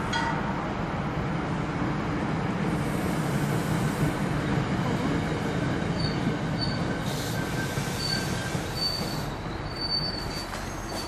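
Train running along the track in a steady rumble, with short high-pitched wheel squeals recurring in the second half.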